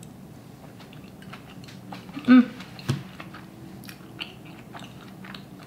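A person chewing a mouthful of soft, chewy Korean rice cakes, with small wet mouth clicks throughout. About two seconds in comes a short hummed "mm".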